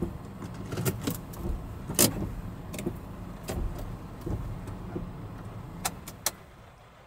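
A light truck's low rumble with a scatter of sharp clicks and knocks, the loudest about two seconds in. The rumble falls away near the end.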